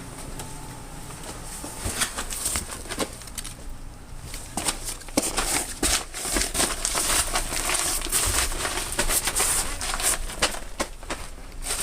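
Irregular rustling and crinkling with many scattered sharp clicks and knocks, busiest from about six to ten seconds in.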